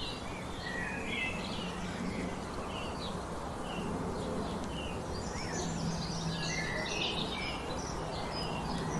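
Several wild birds chirping and singing, short overlapping calls, busiest about five to seven seconds in, over steady background noise.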